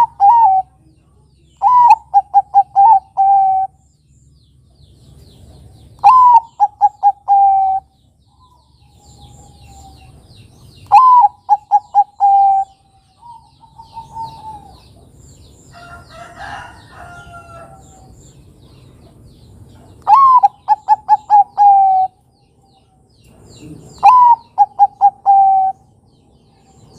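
Bangkok-type perkutut (zebra dove) singing: a phrase of one swooping opening note followed by a quick run of short cooing notes, repeated about five times every few seconds. A fainter, different call comes between phrases about halfway through.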